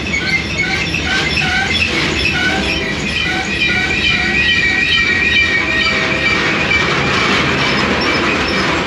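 Train rolling past with its steel wheels squealing on the rails: a high steady squeal with short squeaks repeating about twice a second over a rumble, the squeal dying away near the end.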